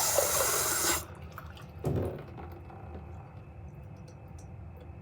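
Water running from a tap into a glass, cutting off about a second in. A short low thump follows about a second later.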